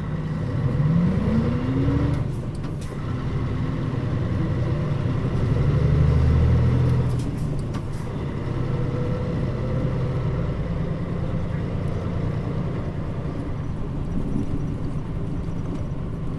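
Mitsubishi Fuso Aero Star route bus's diesel engine heard from inside the cabin, pulling hard with its pitch rising over the first two seconds. After a brief dip, as at a gear change, it builds again to its loudest around six seconds, then eases after about seven seconds into steady cruising.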